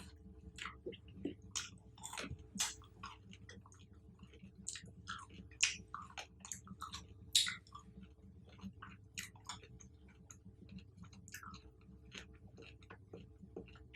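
Close-miked chewing of fruit: many short, irregular wet mouth clicks and smacks, with two louder snaps near the middle.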